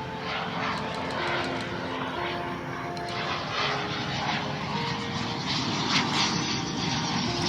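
Fixed-wing aircraft engine noise from an airplane in flight, a steady rushing drone that grows slightly louder toward the end.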